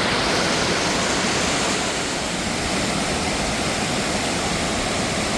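Mountain waterfall: a steady rush of falling water.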